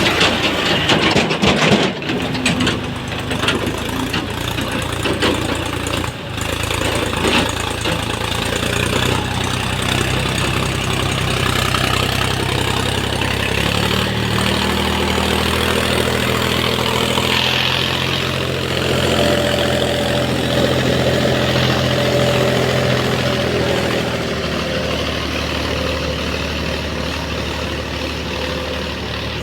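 Diesel tractor engine running steadily, with rattling and knocks in the first couple of seconds. Its pitch rises a little about halfway through and eases off near the end.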